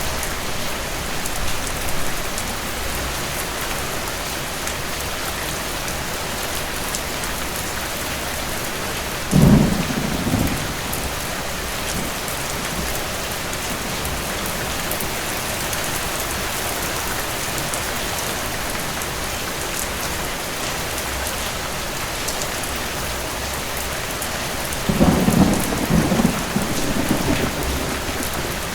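Steady rain, with thunder twice: a sudden clap about a third of the way in and a longer, uneven rumble near the end.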